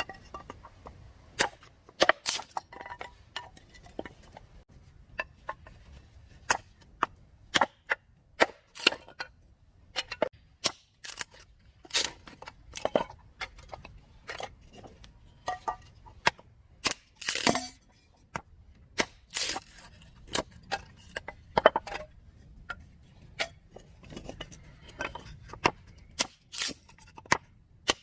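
Irregular sharp clicks and knocks, a few a second and some much louder than others, over a faint low rumble.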